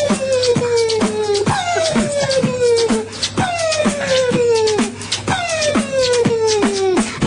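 Beatboxing: rapid mouth-made percussion clicks and hits, with a hummed or sung tone that slides slowly downward, repeated four times in a loop-like pattern.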